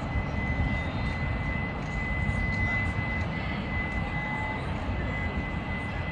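Freight train rolling past at a steady speed: continuous low rumble and rail noise, with a thin steady high whine over it.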